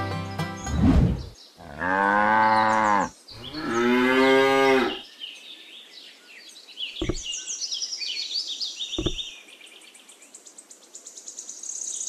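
Two long cow moos in a row, about two and three and a half seconds in, each rising and then falling in pitch. Faint high chirping and two short clicks follow.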